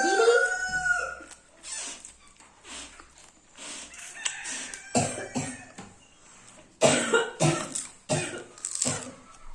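A pet parrot calls with a bending, gliding squawk for about a second and a half, then makes a run of short cough-like sounds in the second half.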